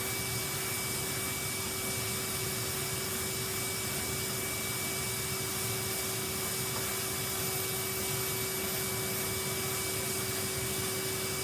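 Vacuum cleaner running steadily: a constant rush of air with a steady whine, unchanging throughout.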